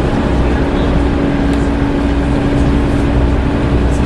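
Volvo B7TL double-decker bus heard from on board, its engine-cooling fan hoovering loudly: a constant steady hum over the low rumble of the engine and the noise of the bus on the move.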